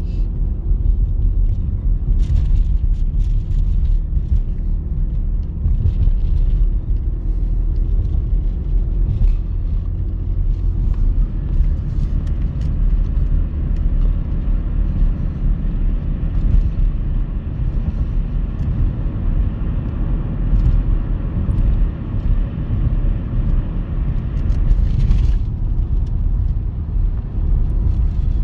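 Steady low rumble of a ChME3 diesel locomotive and its freight train, with no horn sounding.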